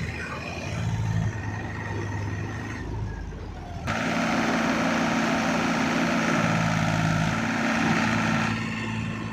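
Powertrac 439 Plus tractor's diesel engine running steadily. About four seconds in, it turns abruptly louder and harsher, and it settles back about four and a half seconds later.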